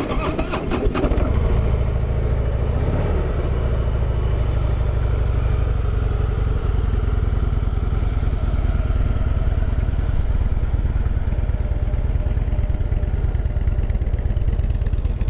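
Harley-Davidson Heritage Softail Classic's 103-cubic-inch fuel-injected V-twin starting: a brief crank, catching about a second in, rising briefly in pitch near three seconds, then settling into a steady idle. The idle is smooth with no strange noises.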